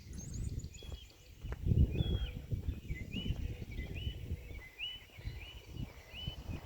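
A small bird singing a run of short, high, upswept notes, repeated about once or twice a second, over low outdoor rumble.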